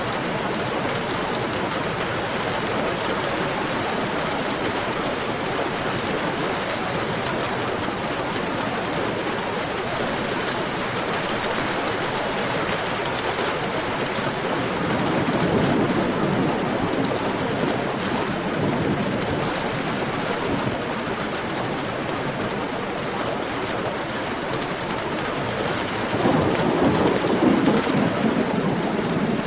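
Heavy rain falling steadily, with thunder rumbling twice, once about halfway through and again near the end.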